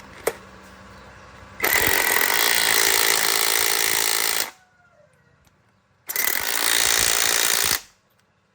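Impact wrench running in two bursts, the first about 3 seconds and the second under 2 seconds, with a short click just before them.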